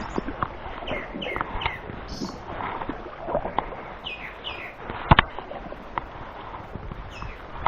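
Small birds calling in short, falling chirps, repeated several times, over an open-air background with scattered knocks and clicks; a sharp double click stands out about five seconds in.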